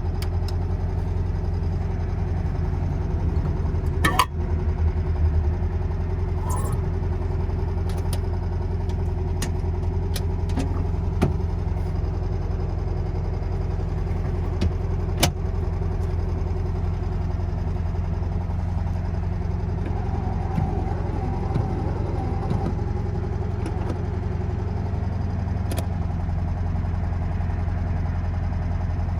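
1964 Volkswagen Beetle's 1200cc air-cooled flat-four engine idling steadily at an even pitch, with a few short sharp clicks over it.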